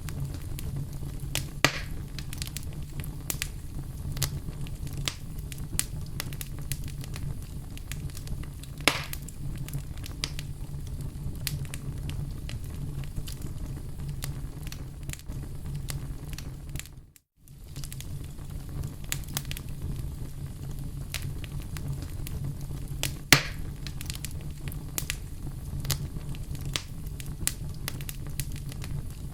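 Wood fire crackling in a fireplace: a steady low rumble with frequent small pops and a few sharper cracks. The sound fades out briefly just past halfway, then resumes.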